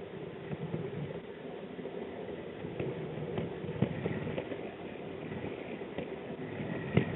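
G-scale model train running on its 45 mm gauge track: a steady rumble with irregular sharp clicks.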